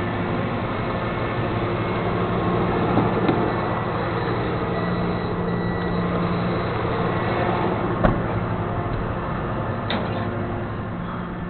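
Flatbed tow truck running with a steady engine drone, and a sharp click about eight seconds in.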